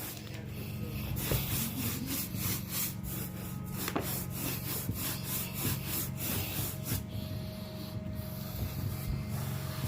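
Stiff carpet brush scrubbing carpet pile in quick, repeated back-and-forth strokes, over a steady low machine hum.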